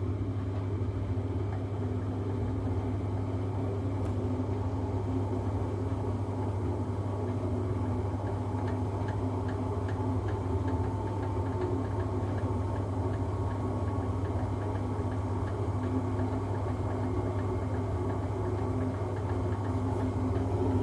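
Siemens washing machine running with a steady low hum and a strange noise, with a faint rapid ticking joining about eight seconds in; the owner suspects the shock absorbers, drum bearings or drum spider.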